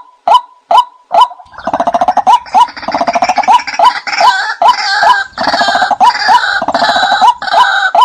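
Bird calls: a short call with an upward hook repeated evenly about two and a half times a second, joined about a second and a half in by a loud, rasping, rattling chatter that continues alongside it.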